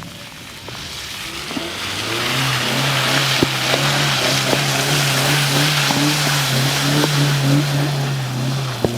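Hyundai Tucson engine under steady load driving through mud, its note building over the first couple of seconds and then holding steady. Over it runs a loud rushing hiss of tyres churning mud, with scattered sharp knocks.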